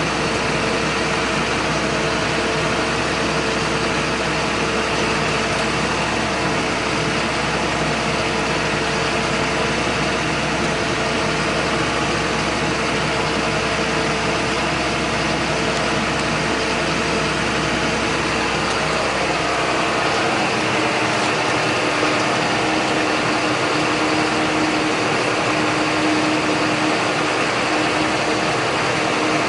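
John Deere 8100 tractor's six-cylinder diesel engine running steadily. About twenty seconds in, the deepest rumble drops away and a steady higher hum takes over.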